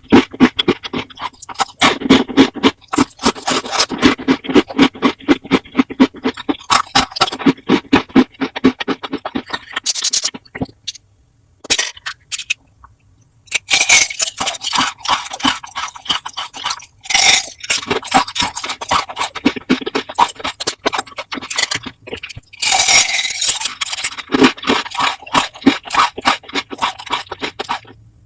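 Close-up crunching and chewing of crisp food, a fast run of crackles and clicks that breaks off for a few seconds twice.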